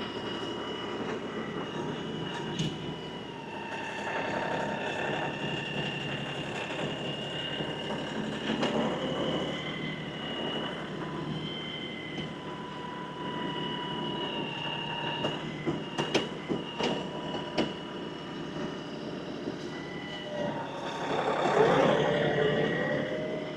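LS XR315 compact tractor running under load as it works a front grapple, with a steady whine that wavers slowly in pitch. A quick run of clanks comes about two-thirds through, and the sound swells near the end with the whine bending up and down.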